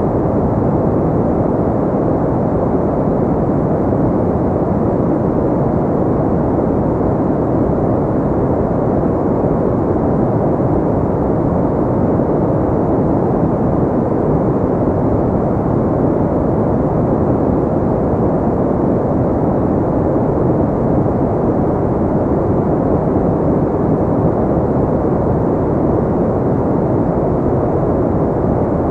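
Steady pink noise: an even, unchanging rush with no tones or breaks, most of its energy low and middle, dull above the treble.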